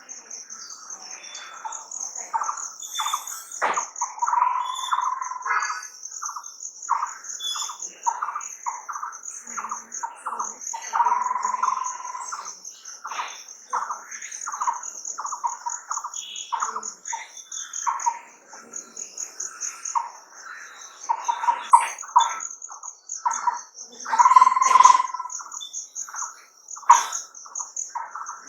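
Outdoor nature ambience: birds calling and chirping in short, irregular phrases over a steady, fast-pulsing high insect trill that runs without a break.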